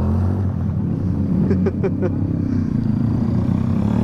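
Small motorcycle engine idling steadily, a low, even drone. Three brief high chirps come about one and a half to two seconds in.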